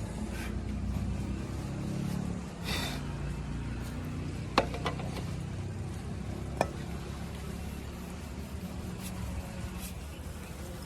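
Heavy diesel engine running steadily at a low idle. A brief hiss comes about three seconds in, and two sharp clicks follow a couple of seconds apart.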